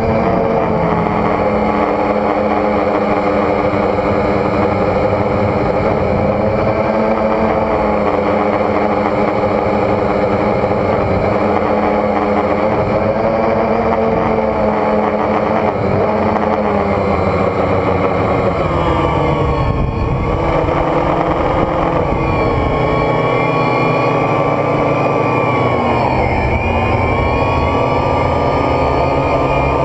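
DJI Phantom quadcopter's motors and propellers running with a steady, layered whine. The pitch shifts as the motors change speed, dipping about two-thirds of the way through and again shortly after.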